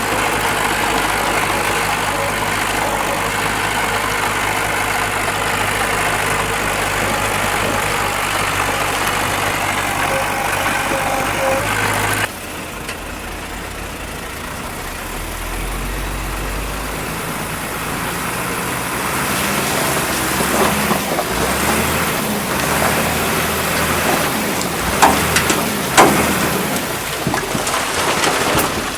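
Heavy construction machinery's diesel engine running steadily. An abrupt cut about twelve seconds in switches to a quieter engine sound that slowly grows louder, with a few sharp knocks near the end.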